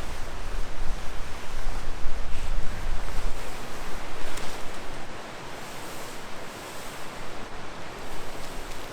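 Steady rushing of wind and rain outdoors, with wind buffeting the microphone in the first half before easing off about halfway through.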